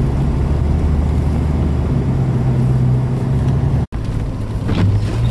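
Jeep driving in four-wheel drive, heard from inside the cabin: a steady low engine and road drone. The sound drops out for an instant about four seconds in.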